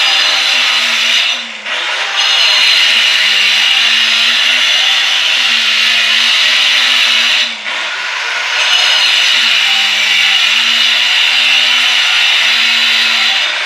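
Electric power tool cutting wiring chases into a wall, its motor pitch wavering and sagging under load. It eases off briefly twice, about a second and a half in and again about seven and a half seconds in.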